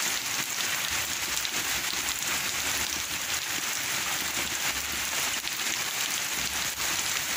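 Steady heavy rain falling on surfaces: an even hiss with dense patter.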